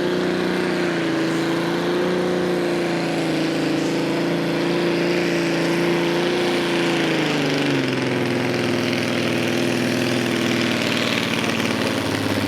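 A naturally aspirated pulling tractor's engine running at full throttle under load as it pulls the sled. Its steady pitch drops about two-thirds of the way through as the engine slows.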